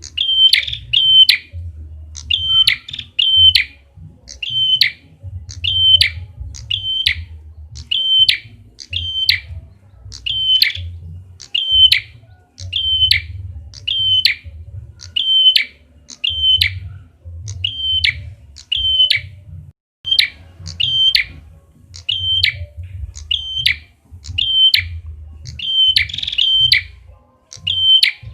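Lure recording of a prenjak kepala merah calling: sharp, high chirping notes repeated about two a second, often in quick pairs, over a low hum.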